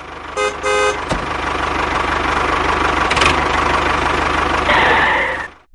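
A motor vehicle running steadily, with two short horn toots about half a second and a second in; the sound cuts off suddenly near the end.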